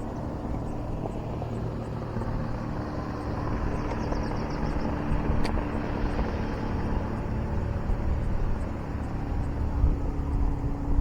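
A boat motor running steadily, a low rumble with a steady hum. There is one sharp click about five seconds in.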